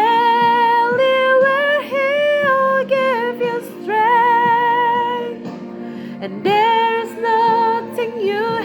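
A woman singing a slow gospel song over backing music, holding long notes with vibrato.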